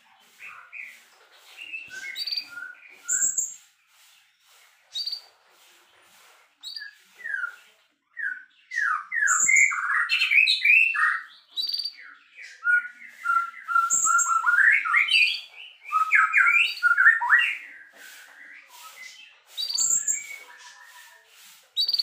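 White-rumped shama (murai batu) in full song: a loud, varied run of quick whistled and chattering notes, delivered in phrases with short pauses, the longest and densest stretch in the middle.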